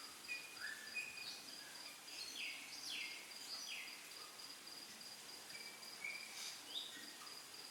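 Faint background of an insect's steady, rapidly pulsing high trill, with a scattering of short bird chirps and falling notes. The chirps cluster around the middle and again near the end.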